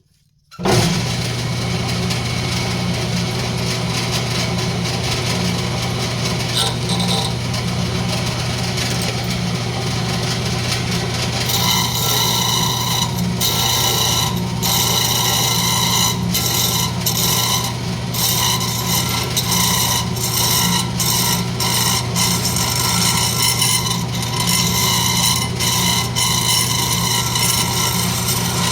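A wood lathe starts running about half a second in, with a steady hum, while a turning tool cuts a spinning rosewood blank with a rasping, scraping sound. From about twelve seconds in the cutting gets brighter and comes in repeated passes with short breaks, as the taper is blended.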